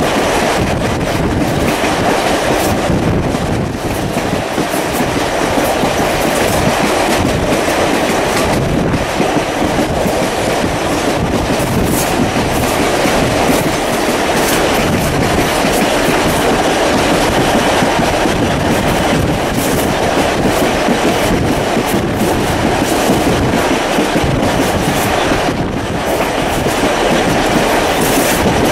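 Steam-hauled vintage passenger carriage running at speed, a steady rumble and rush of wheels on rail with scattered clicks over the rail joints, heard through an open carriage window.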